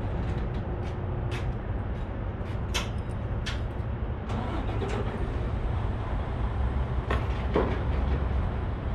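Semi truck's diesel engine idling with a steady low rumble, with scattered sharp clicks and knocks from hooking bungees onto the tarped flatbed load.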